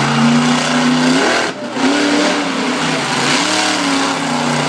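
Monster truck engine running hard under heavy throttle. The throttle cuts off sharply for a moment about a second and a half in, then comes back on. The engine note sags and climbs again as the revs change.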